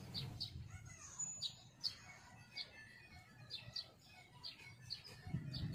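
Faint bird chirps: short high calls every half second to a second, over a low steady background rumble.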